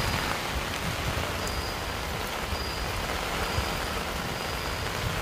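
Steady rain falling and pattering on the ground in an even, unbroken patter.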